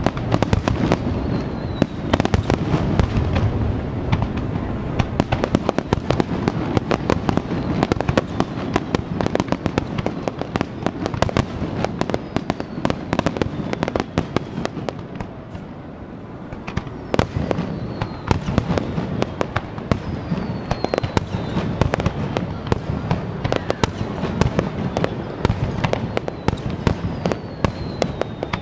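An aerial fireworks display: a dense, continuous crackling and popping of bursting shells over a low booming rumble. A few falling whistles sound in the second half.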